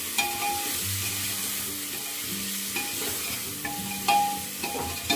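Onion-tomato masala with ground spices sizzling as it fries in an open aluminium pressure cooker, stirred with a metal spatula that scrapes and knocks against the pan, with a sharper knock about four seconds in.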